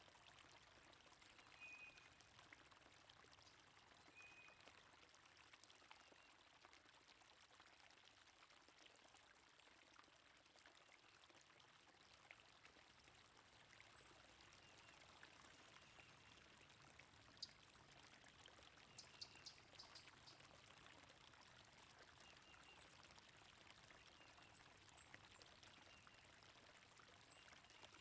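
Faint, steady rush of flowing stream water, with short high bird chirps every few seconds. A brief run of sharp ticks comes about two-thirds of the way in.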